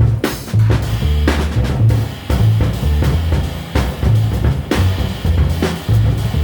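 Jazz trio recording: a drum kit plays busy, irregular strikes on snare, bass drum and cymbals over a run of plucked double bass notes that shift in pitch.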